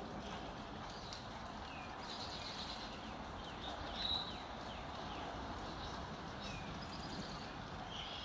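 Several songbirds call throughout: short high chirps and quick down-slurred notes, with a brief trilled phrase about two seconds in and a louder note about four seconds in, over a steady low background hiss.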